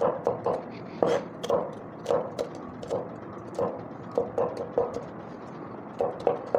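Kitchen knife chopping vegetables on a cutting board: short, uneven knocks of the blade on the board, about two a second with brief pauses.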